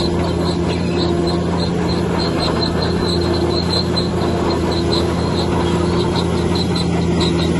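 Heavy earthmoving machinery's diesel engine running steadily with a constant low hum, with short high-pitched chirps repeating several times a second over it.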